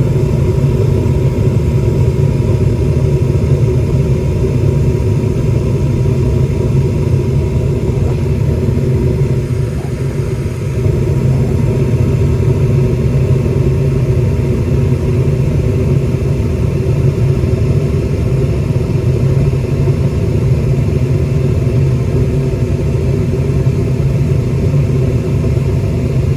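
Goodman gas furnace running with its burners lit and its blower fan on: a loud, steady rumble that dips briefly about ten seconds in.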